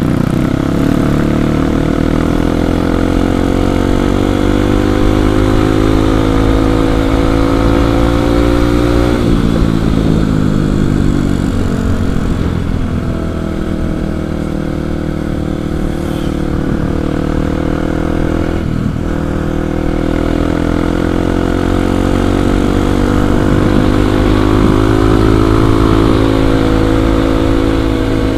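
Kawasaki KLX 250's single-cylinder four-stroke engine running under way. Its pitch climbs slowly, drops about nine seconds in as the revs fall, stays low for several seconds, then climbs again after about twenty seconds and eases near the end.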